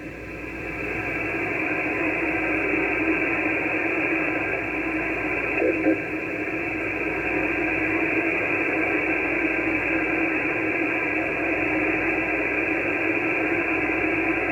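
Steady static hiss from an amateur radio receiver on single sideband, with no station talking over it. There is a brief faint blip about six seconds in.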